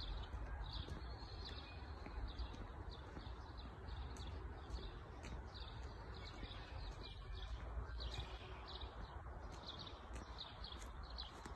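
Small birds chirping, short high notes repeated several times a second, over a steady low rumble of wind on the microphone.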